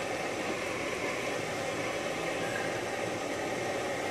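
Steady car interior noise: the engine running under an even hiss, with no distinct events.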